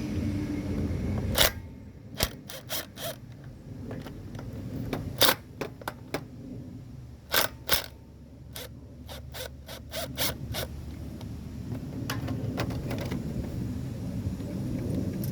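Hand tools and loose metal parts clicking and clinking against a small engine during disassembly, in scattered single knocks and short quick runs, with some scraping. A steady low rumble runs underneath.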